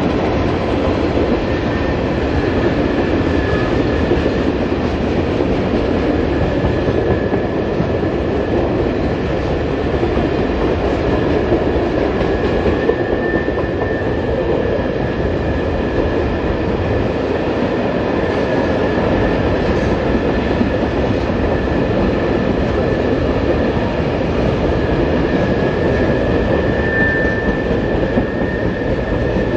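Norfolk Southern freight train rolling past, a steady loud rumble and clatter of wheels on the rails, with a faint high squeal that comes and goes.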